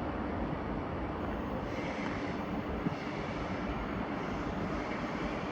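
Steady rumble of a passenger train moving through the station.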